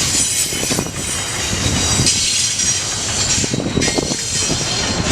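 Union Pacific intermodal freight train rolling past, its cars clattering over the rail joints with a thin, steady high squeal from the wheels.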